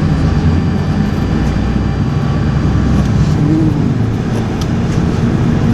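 Steady low rumble of a vehicle in motion, with a brief slight rise and fall in pitch about three and a half seconds in.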